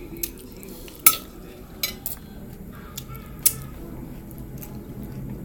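Cutlery clinking against dishes at a meal table: a handful of sharp, separate clinks, the loudest about a second in and another strong one about three and a half seconds in.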